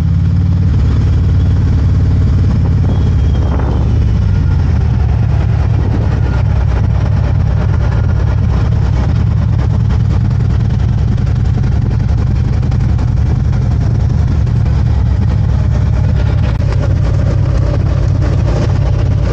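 Harley-Davidson motorcycle's V-twin engine running steadily at low speed as the bike is ridden, a loud, even low engine note.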